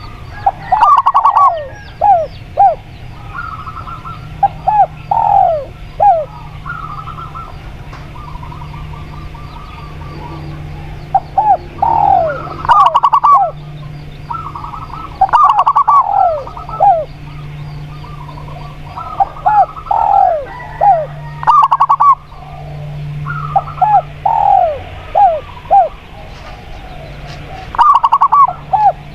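Spotted dove and zebra dove calling, with short phrases of quick falling coos repeated every few seconds.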